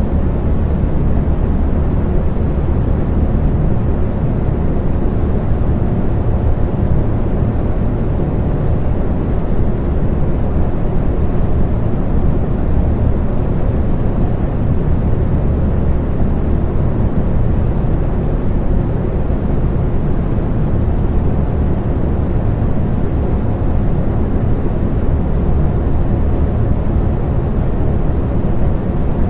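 Electric fan running steadily: a constant low rush of air with a faint, even motor hum and no change in speed.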